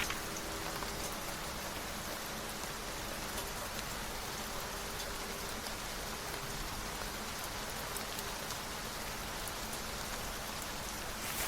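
Steady rain falling as an even hiss, with a brief rustle of a book page turning near the end.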